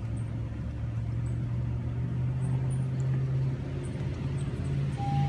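A car engine idling: a steady low hum.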